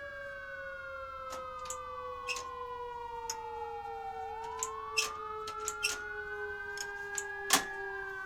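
Ambulance siren wailing in one slow fall and rise, with a lower tone sliding gradually down beneath it. Scattered sharp clicks and knocks run through it, the loudest about seven and a half seconds in.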